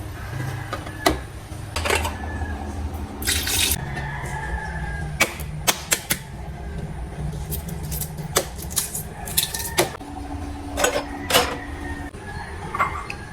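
Scattered sharp clicks and knocks of household handling over a steady low hum, with a brief hiss about three seconds in.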